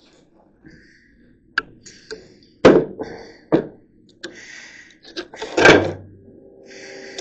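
Hammer knocking small nails into wooden lath, starting the nail holes: a run of irregular separate knocks, the loudest about two and a half seconds in and another heavy one near the end.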